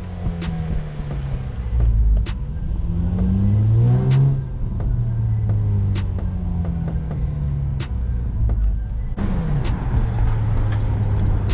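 Acura TL SH-AWD's 3.7-litre V6, with its pre-cats removed, under way: the engine note climbs steeply about three seconds in, drops back, then runs fairly steadily.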